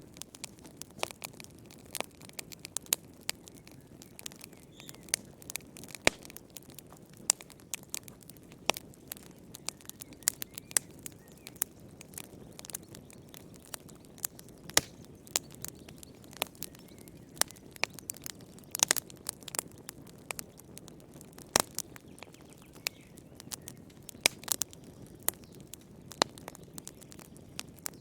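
Wood fire crackling in a fireplace: irregular sharp pops and snaps, several a second, over a low steady rush of burning.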